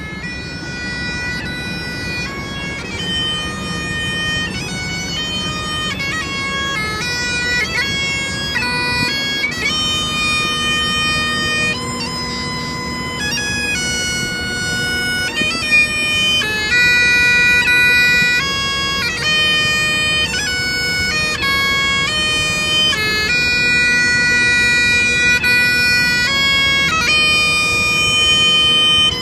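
Bagpipes playing a tune: steady drones sound under a chanter melody that moves quickly from note to note.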